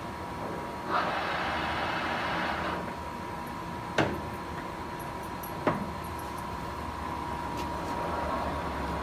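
Summit engine lathe running with a steady thin whine. A hissing, rushing stretch starts about a second in and lasts under two seconds, and two sharp clunks come later, about two seconds apart. Near the end the sound begins to build.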